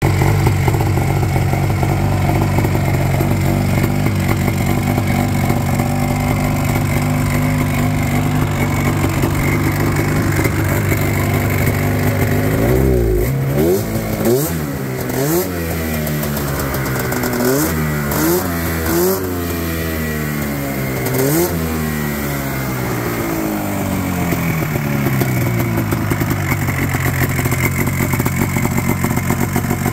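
Rotax 670 two-stroke twin engine from a Ski-Doo snowmobile, swapped into a Honda Pilot, running steadily, then revved in about seven quick blips in the middle. The revs fall away in a long drop and it settles back into a steady run.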